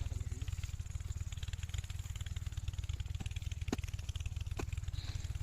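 Kirloskar 8 hp single-cylinder diesel pumpset engine running steadily with a fast, even chugging beat, with a few sharp clicks about midway.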